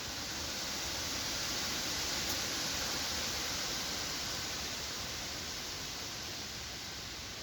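Wind gusting through forest trees, a steady rushing hiss of moving leaves that swells over the first few seconds and then slowly eases off.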